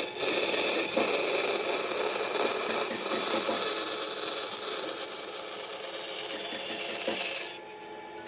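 A tool abrading wood with a steady, dense rasping noise that stops abruptly about seven and a half seconds in.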